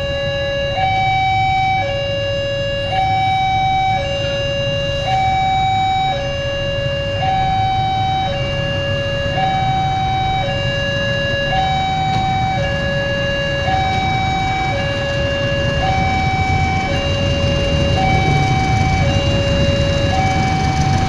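Railway level-crossing warning alarm sounding a steady electronic two-tone signal, a higher and a lower note swapping about once a second, over a low rumble.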